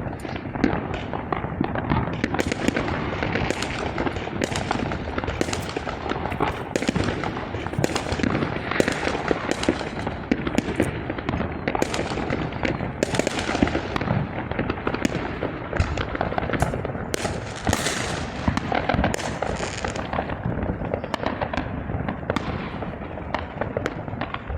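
Dense, continuous barrage of consumer fireworks from many directions: overlapping bangs, pops and crackling with no pause, the New Year's midnight peak of neighbourhood fireworks.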